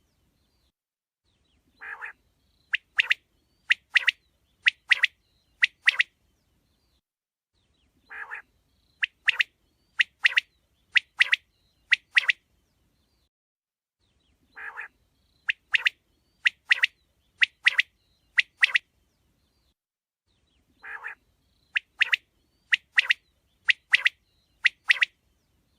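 Male quail singing four times, each song a short low rasping note followed by a quick run of about six sharp, high, paired whistled notes. The songs repeat every six or seven seconds with silence between them.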